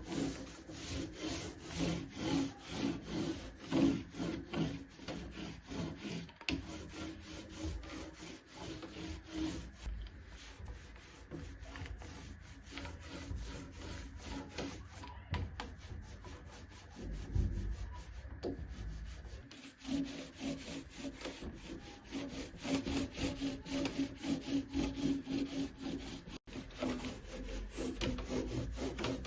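Rhythmic back-and-forth rubbing on wood, about three or four strokes a second, as the wooden niche is worked by hand before being painted white; the strokes stop abruptly a few times.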